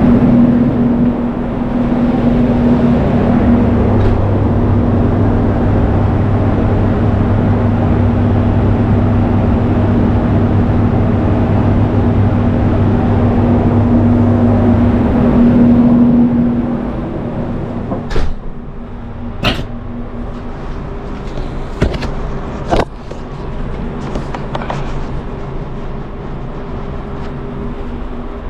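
A steady low hum with two held tones drops in level about two thirds of the way through. A few sharp clicks and knocks follow, like things being handled.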